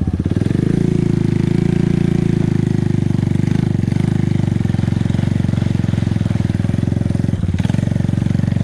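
ATV engine running steadily under load while the quad is stuck in deep mud, with a brief dip in the engine sound about seven and a half seconds in.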